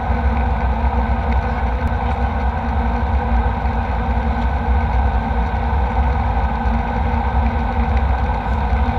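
Steady cabin noise of a jet airliner in flight: engine and airflow noise with a heavy low rumble and a few steady hums.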